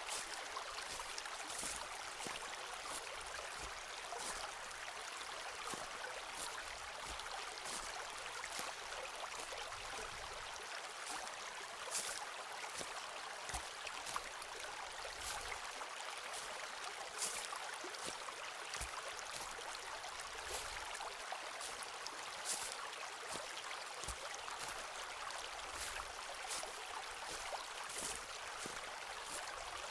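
Footsteps on a forest path, short crunching steps roughly every half second to a second, over the steady rush of a nearby stream.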